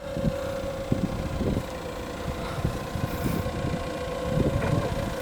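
Yale GLC050 LP-gas forklift engine idling: a steady hum over an uneven low rumble.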